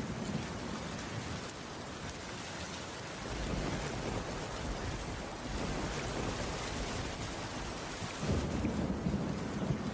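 Steady rainfall, with low rumbles of thunder swelling about three and a half seconds in and again near the end.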